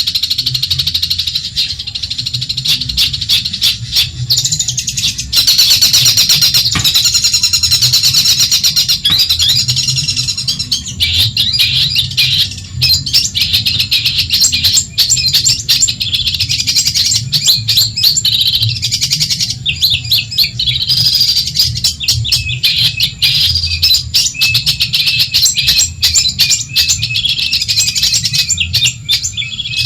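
Long-tailed shrike (cendet) singing a fast, continuous chattering song of high notes and rapid clicks, with a steady low hum underneath.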